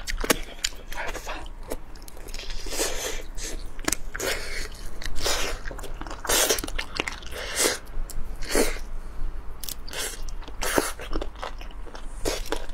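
Close-miked eating of a spicy whole chicken: irregular biting and chewing, with wet mouth smacks and clicks.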